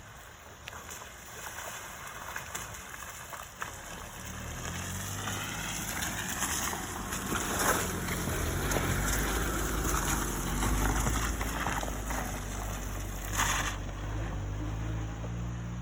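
Suzuki Jimny driving through a waterfall's stream: its engine running steadily and growing louder from about four seconds in, with water splashing against the vehicle. There is a brief louder splash near the end.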